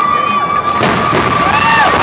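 Crowd of spectators cheering and shouting, with a firework bang just under a second in and a steady high whistle-like tone running underneath.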